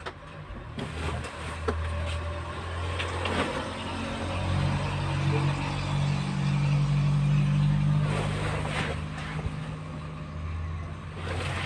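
A motor vehicle's engine running with a low steady hum that swells louder over the middle seconds and then eases off, with a few light clicks.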